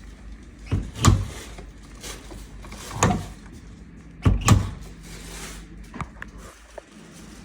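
Several clunks and knocks, about four of them a second or so apart, over a low steady hum: a Haier washing machine being handled, its door or drum moved.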